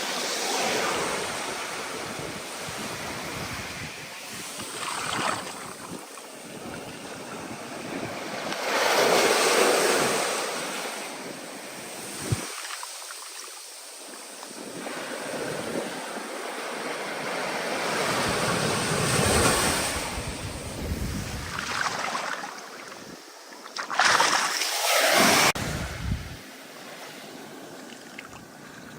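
Ocean waves rolling in and breaking, a rushing surge that swells and ebbs every few seconds; the biggest breaks come about ten, twenty and twenty-five seconds in. A single brief sharp click about twelve seconds in.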